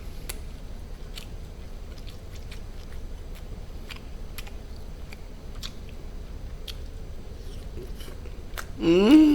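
A person chewing and biting food close to the microphone, with scattered short mouth clicks and crunches. Near the end comes a loud hummed "mmm" of enjoyment, rising in pitch and starting twice.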